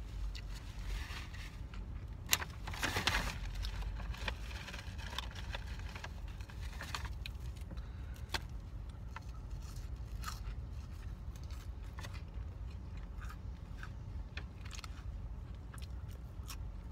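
Close-up chewing and crunching of a lettuce-wrapped cheeseburger with crisp iceberg lettuce. Scattered crisp clicks and mouth sounds, the densest crunch about three seconds in, over a steady low rumble.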